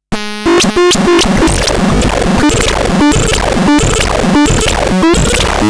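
Loud, harsh electronic noise music: a dense hiss-and-crackle texture with short synthesizer-like pitched notes about every two-thirds of a second, starting abruptly at the very beginning.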